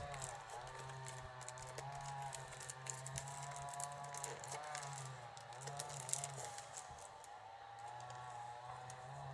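Wicker rods crackling and clicking as a soaked rod is bent and pushed through the weave of a basket, many small irregular clicks. A faint wavering hum sounds in the background.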